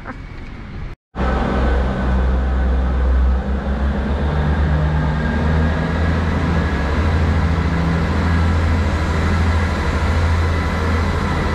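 Steady low engine rumble of a road vehicle, with a constant low hum, starting abruptly about a second in.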